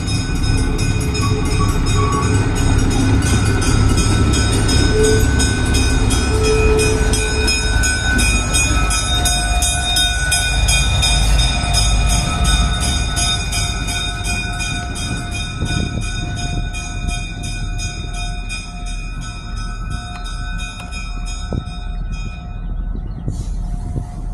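Zephyr streamlined diesel train running, with a steady low rumble under a locomotive bell ringing evenly. The bell stops a couple of seconds before the end.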